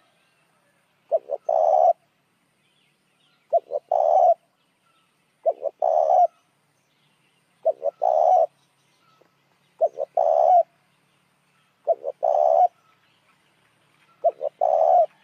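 Spotted dove cooing: a repeated phrase of two short notes followed by a longer note, seven times at about two-second intervals.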